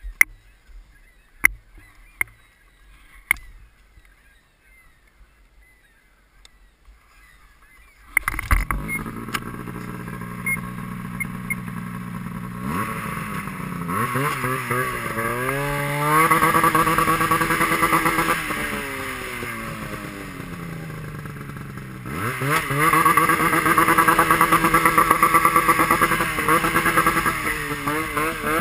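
A few sharp clicks, then a motorcycle engine starts about eight seconds in and runs. It accelerates, rising in pitch, eases off, then accelerates again.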